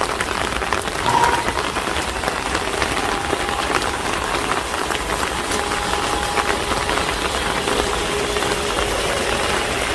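Steady rain falling and pattering on street surfaces, a dense hiss of drop ticks over a low background rumble.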